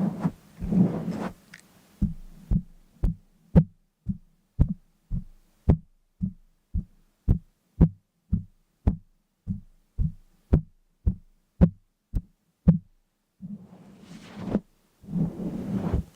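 A steady series of short, low knocks, about two a second, lasting some ten seconds and then stopping. It is framed by longer rustling or scraping sounds near the start and again near the end.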